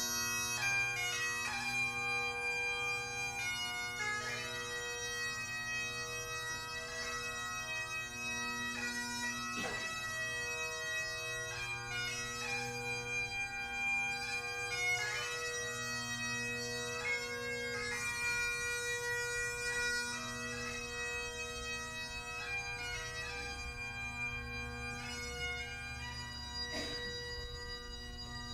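Bagpipes playing a slow tune, the melody notes held a second or more each over the pipes' steady, unbroken drones.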